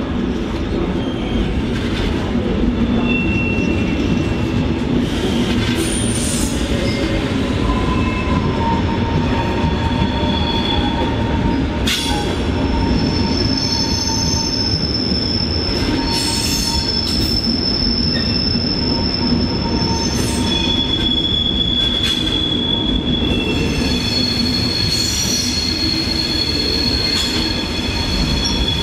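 A train running on station track with its wheels squealing: long, high-pitched steady squeals over a constant rolling rumble, with a few sharp knocks along the way.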